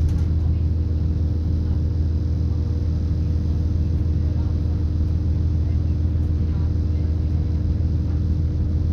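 Steady low drone heard inside a British Rail Class 170 Turbostar diesel multiple unit as it runs along: the carriage's MTU turbo diesel engine, hydraulic transmission and running noise, with a couple of steady hum tones over the rumble.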